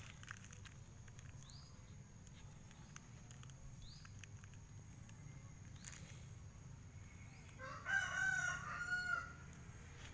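A rooster crows once, about eight seconds in, a pitched call lasting under two seconds. A few faint short high chirps come earlier.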